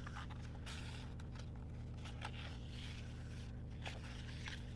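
Paper sticker sheets of a sticker book being handled and leafed through: light rustles, scrapes and small ticks over a steady low hum.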